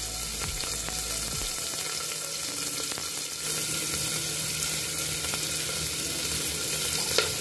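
Sliced onions and cumin seeds sizzling in hot ghee in a pressure cooker, a steady frying hiss, as a pinch of asafoetida goes in for an Indian tadka (tempering).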